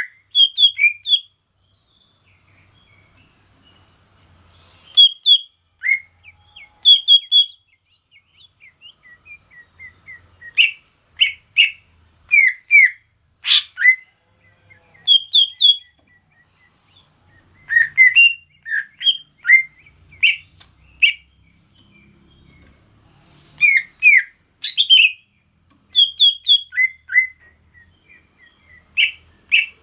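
Greater green leafbird (cucak ijo) calling: short, sharp chirps and quick whistled notes in clusters of two to four, with pauses between, over a steady high hiss.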